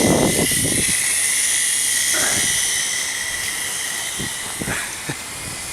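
Small remote-control helicopter's motor and rotors running with a steady high whine and hiss, slowly getting quieter toward the end.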